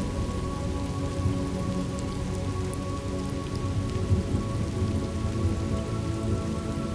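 Thunderstorm ambience: steady rain with a low rumble of thunder, under soft, held music tones.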